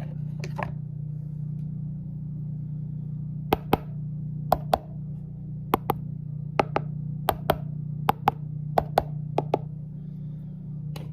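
Sharp taps in quick pairs, about seven pairs over six seconds, starting about three and a half seconds in, over a steady low hum.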